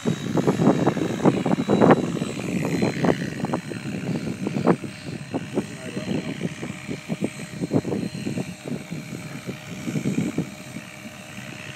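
Electric 700-class RC helicopter (Miniature Aircraft Whiplash) flying, its rotor and motor whine wavering up and down in pitch. It is mixed with heavy, irregular low buffeting that is strongest in the first half.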